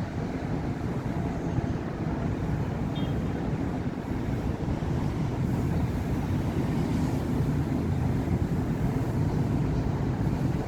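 Steady road traffic on a busy city avenue: a continuous low rumble of cars and buses going by, a little louder in the second half.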